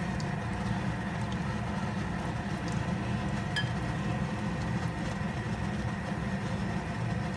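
Breaded potato hash brown patties frying in shallow oil in a pan: a steady sizzle over a low, even rumble.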